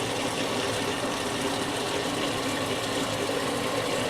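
Whirlpool Duet Sport front-load washer filling with water for another rinse: a steady rush of incoming water with a faint machine hum.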